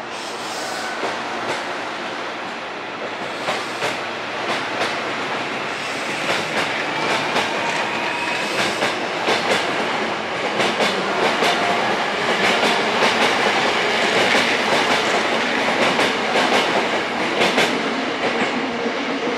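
Hankyu 1000 series electric train running through, its wheels clacking over rail joints, the clacks coming louder and faster as it nears, with a faint whine from its motor inverter over the rumble.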